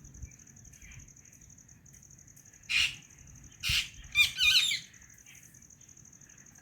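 White Indian ringneck parrot giving two harsh squawks just under a second apart, about three seconds in, then a short warbling chatter. Faint soft chirps come before and after.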